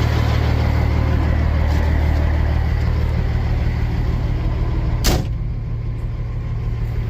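Semi truck's diesel engine idling with a steady low rumble, heard from inside the cab. A single sharp click about five seconds in.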